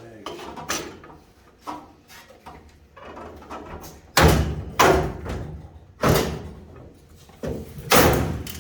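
A Cessna 150 wing fuel tank knocking and scraping against the wing structure as it is shifted and tilted to clear an edge. Several loud clunks, mostly in the second half, with lighter taps between.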